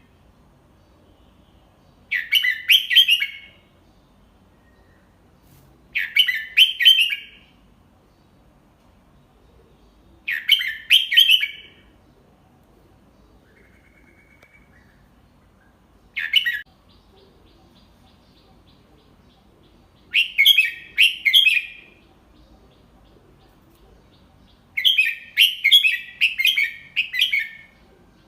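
Red-whiskered bulbul singing short, quick phrases of a few notes each, repeated about every four seconds. There are six phrases, and the last is the longest.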